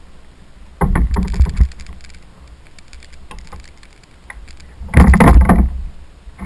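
Two loud bursts of knocking and rattling on a kayak, one about a second in and one about five seconds in, with a few small clicks between them.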